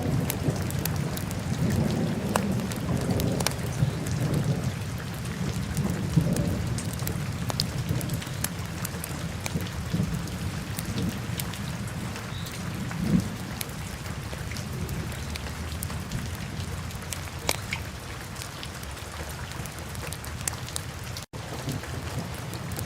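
Wood fire burning in a fireplace: a steady low rumble of flames with frequent sharp crackles and pops. A split-second dropout in the sound comes near the end.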